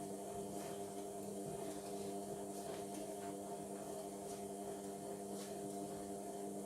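Indesit washing machine running mid-cycle: a steady motor hum that holds the same pitch throughout, with faint soft knocks over it.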